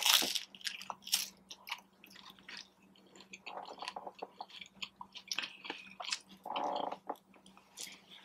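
Close-up eating sounds of a person biting and chewing a crunchy taco: many small crackling crunches and mouth sounds, the loudest right at the start.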